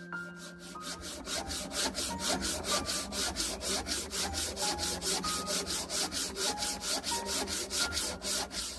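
Rapid, even back-and-forth strokes of a hand tool rasping on wood, about four or five strokes a second.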